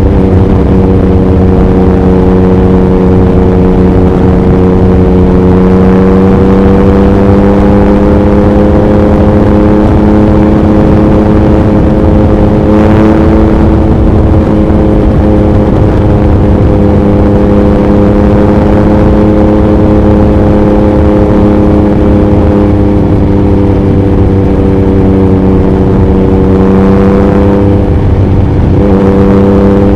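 2021 Yamaha MT-09's 890 cc inline-three with an Akrapovic racing exhaust, cruising at a nearly steady engine speed on the highway, rising a little about halfway and dipping briefly near the end. Heavy wind buffets the microphone throughout.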